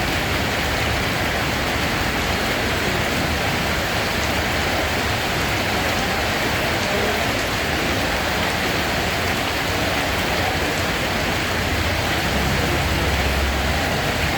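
Steady heavy rain falling, an even unbroken hiss of drops on a surface.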